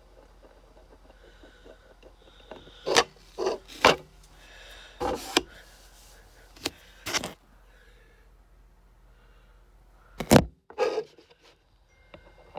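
Handling noise from small objects on a hard surface: scattered short knocks and rubs in small clusters, the loudest about ten seconds in.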